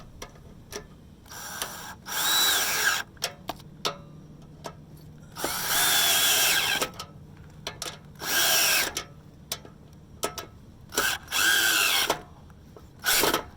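Cordless drill spinning in about six short bursts, its whine rising and falling within each run, as it runs down the nuts on an exhaust pipe clamp. Small clicks of tools on metal come between the runs.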